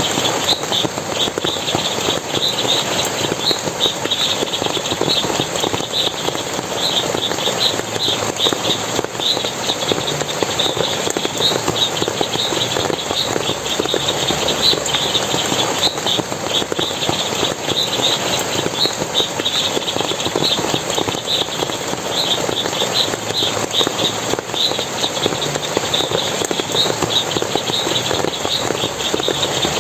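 Forest stream of water splashing and running steadily, with a constant rapid high chirping over it, several chirps a second.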